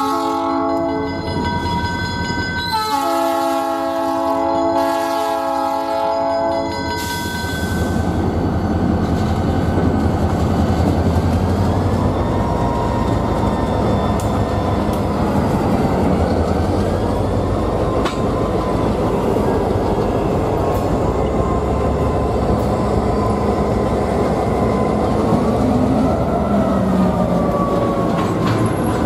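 Freight train passing at a grade crossing: the lead diesel locomotive's multi-note chime horn finishes a short blast about a second in, then sounds one long blast from about three to seven seconds, the closing blast of the crossing signal. The locomotives then pass close with a deep diesel rumble, followed by tank cars rolling by with wheel clatter and a faint wavering squeal.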